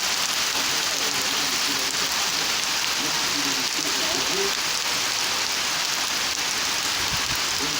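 Steady rain falling on surfaces, a dense, even hiss with no let-up.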